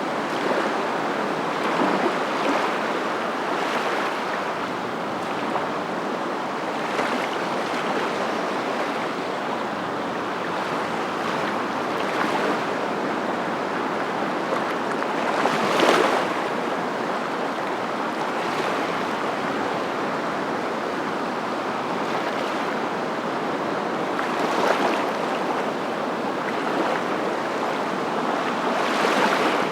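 Steady rushing water noise that swells into louder surges every few seconds, the strongest about halfway through.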